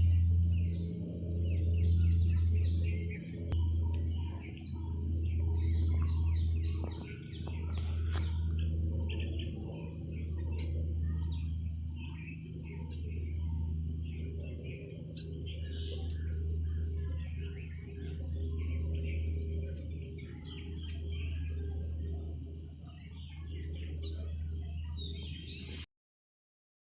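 A flock of scaly-breasted munias chirping, with many short, high calls overlapping throughout. Under the calls there is a steady high hiss and a louder low rumble that swells and fades every couple of seconds. All sound cuts off just before the end.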